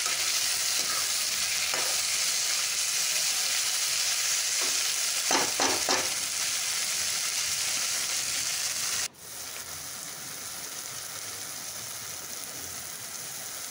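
Chopped tomatoes and onions sizzling in hot oil in a steel kadhai while a steel spatula stirs them, with a few spatula scrapes about five to six seconds in. About nine seconds in, the sizzle drops suddenly to a quieter level and continues.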